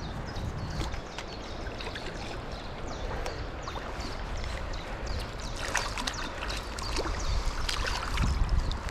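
River water running steadily over stones, with scattered small ticks and splashes.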